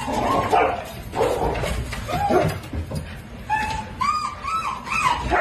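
A dog whining and whimpering in a string of short, high-pitched cries, most of them in the second half.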